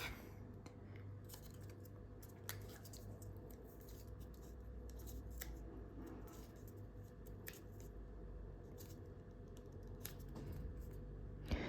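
Faint crinkling and occasional sharp crackles of A4 paper as a many-layered origami jet is folded in half and pressed. The paper is stiff to fold at this stage. A low steady hum sits under it.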